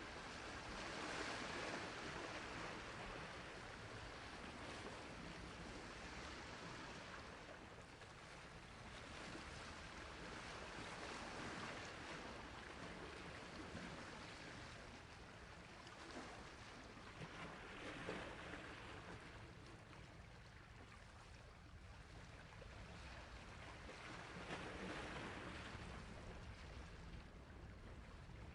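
Sea waves washing onto a shore as a steady hiss, swelling and falling away four times, several seconds apart.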